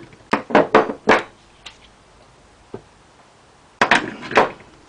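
Metal hand tools knocking and clinking against the Predator 212 engine as a socket is fitted to the head bolts: a quick run of four sharp knocks about a second in, and three more near the end.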